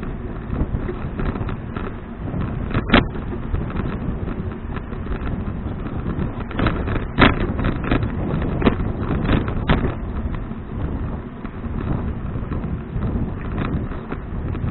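Wind buffeting the microphone and road rumble from a moving bicycle, with a few sharp knocks or rattles: one about three seconds in and a cluster in the middle.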